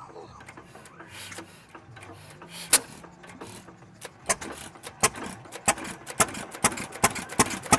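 An old engine running with a low hum under a clatter of sharp, uneven clicks and knocks, which come thicker and louder from about halfway through.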